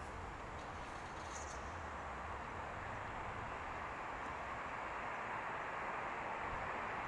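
Jet engines of an approaching Boeing 787-9 (Rolls-Royce Trent 1000) on final approach: a steady roar that slowly grows louder as the airliner draws nearer.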